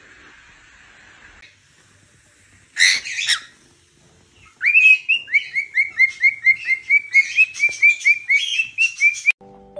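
A small bird chirping in a fast run of high, evenly repeated chirps, about four a second for some five seconds. A short harsh squawk comes about three seconds in.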